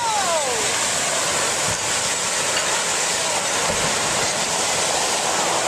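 Steady rushing noise, with a short falling whistle-like call right at the start.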